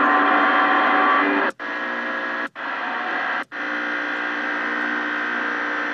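CB radio static hissing from the radio's speaker, with steady humming tones running through it. It cuts out briefly three times, about a second apart.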